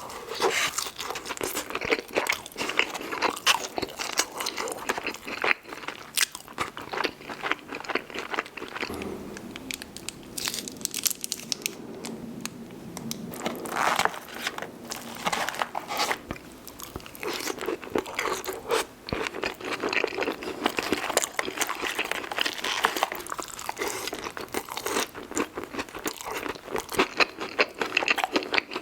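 Close-miked chewing of In-N-Out animal-style fries: steady, rapid mouth clicks and smacks of someone eating with big bites.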